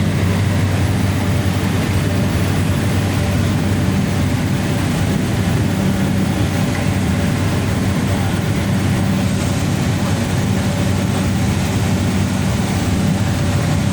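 Cabin noise of a Cessna Grand Caravan 208B: the steady drone of its single turboprop engine and propeller, with a constant low hum.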